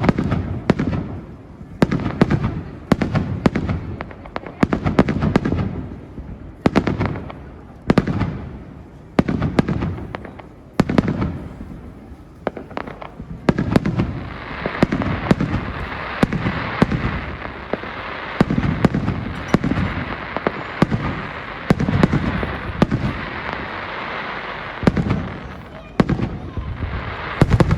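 Fireworks display: aerial shells bursting one after another, each a sharp bang followed by a low boom, roughly one a second. A dense steady hiss runs under the bursts for about ten seconds in the middle.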